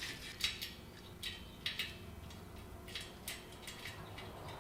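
Scattered light clicks and taps of screws and a fan blade being handled while it is fitted to a ceiling fan.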